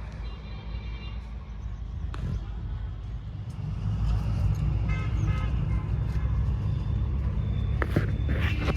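Road traffic: a steady low engine rumble that gets louder about halfway through, with two short high-pitched tones, near the start and about five seconds in.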